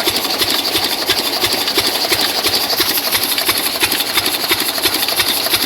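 Single-cylinder 8 hp diesel engine running steadily, with a rapid, even knocking beat.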